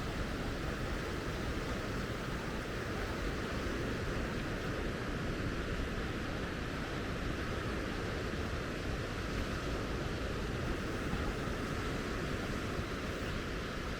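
Steady, unbroken wash of ocean surf, with a deep low rumble under it.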